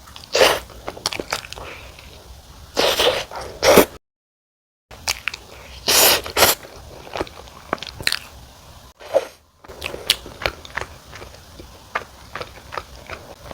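Close-up eating sounds of wood-fired sweet potato pizza: several loud bites, with wet chewing clicks and smacks between them. The sound cuts out completely for about a second just before the middle.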